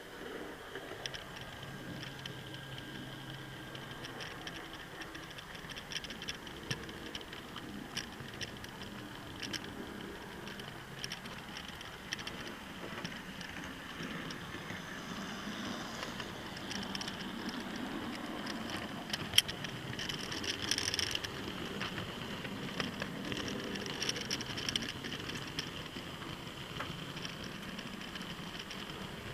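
Model trains running on the track: the wheels click over the rail joints and the motors whine faintly, getting louder for a while in the middle as a train passes close.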